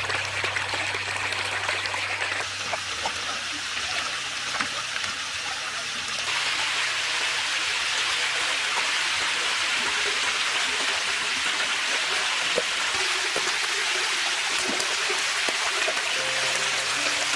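Running water, a steady splashing and trickling rush that gets louder about six seconds in.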